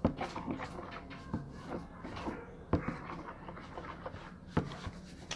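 A few sharp knocks with light scraping in between: a spoon stirring food colouring into slime glue in a bowl and knocking against its sides.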